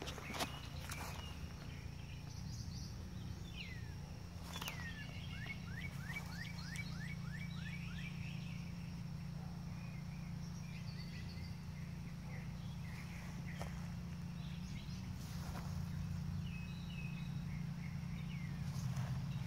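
Outdoor ambience of birds chirping, including a quick run of about eight down-slurred notes some six seconds in, over a steady low hum and a thin high whine, with a few faint knocks.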